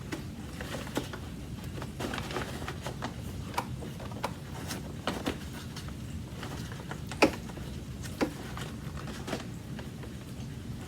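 Hands fitting a dust bag back into an old Hoover vacuum cleaner: scattered light clicks and knocks of plastic parts with soft rustling between, the loudest knock about seven seconds in.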